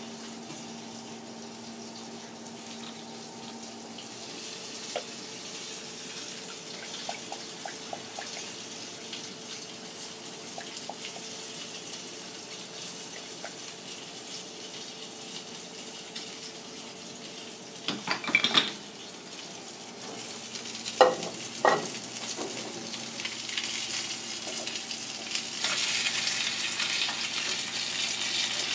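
Chillies and garlic frying in oil in a small pan, a steady sizzle, with a few sharp knocks of a utensil against the pan partway through. The sizzle grows louder near the end as crab claw pieces fry in a frying pan.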